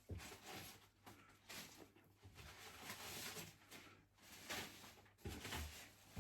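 Faint handling noise: light scraping and rustling, with a few soft knocks a little after five seconds, over a low steady electrical hum.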